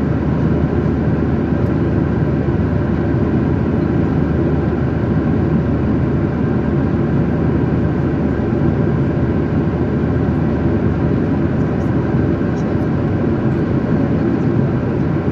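Steady jet engine and airflow noise inside an airliner cabin in flight, a constant low rumble with no change.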